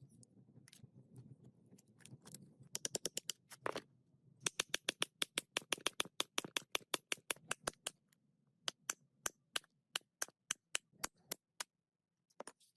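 A rapid series of sharp taps, about six a second, slowing to about three a second near the end.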